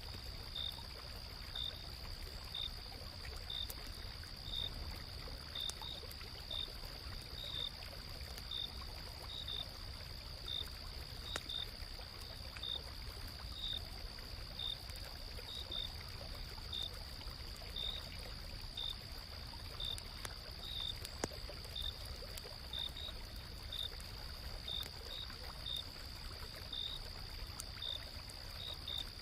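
Night insects calling, with one steady high trill and another insect giving short chirps about once or twice a second. Under them runs the low, even rush of a flowing river, with a few faint campfire crackles.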